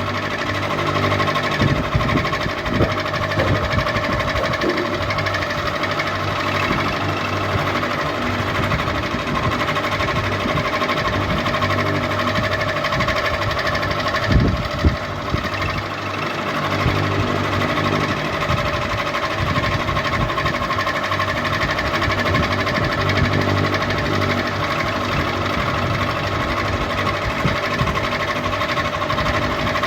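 Electric ceiling fan running steadily, its motor humming under a whir. There are a couple of brief knocks about halfway through.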